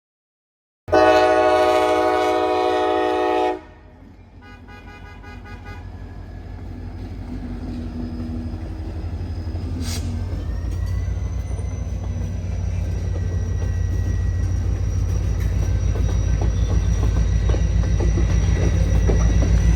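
Train horn sounding one loud chord-like blast about a second in, followed briefly by a faint rapid ringing. Then the train's low rumble grows steadily louder as it approaches.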